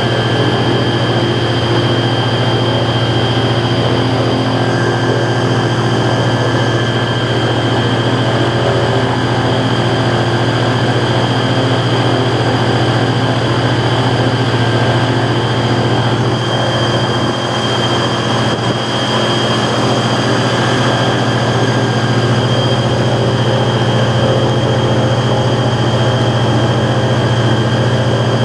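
Tour boat's engine running steadily under way: a loud, constant low drone with steady higher whining tones over it.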